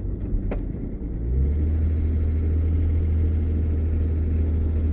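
Steady low drone of a vehicle heard from inside the cabin while driving. A couple of faint clicks come near the start, and just over a second in the low drone grows louder and then holds steady.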